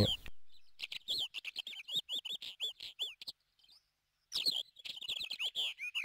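A bird calling in a rapid series of short, arched chirps, about two to three a second. The calls pause for about a second near the middle, then start again.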